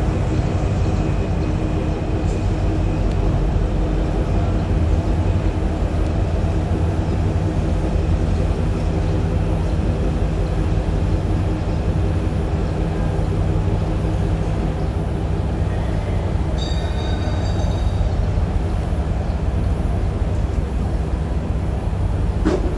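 Ship's engine running steadily, a loud low drone with a constant pitch.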